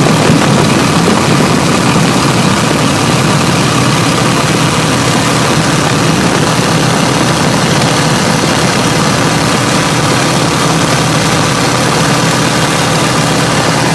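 Biplane engine and propeller in steady cruise, a constant loud drone with even engine tones over a broad rush of noise and no change in pitch.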